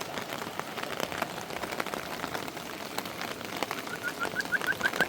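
Steady rain falling, with many individual drops ticking on surfaces. Near the end a quick run of short high chirps, about six a second, comes in over the rain.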